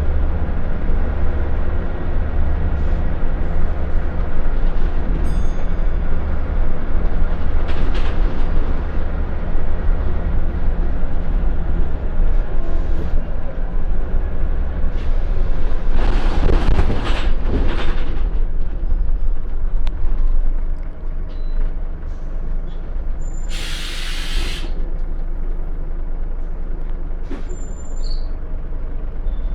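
Scania L94UB Wright Solar bus's diesel engine running, heard from on board. It grows a little quieter about two-thirds of the way through. Shortly after that comes a short, sharp hiss of compressed air from the air brakes.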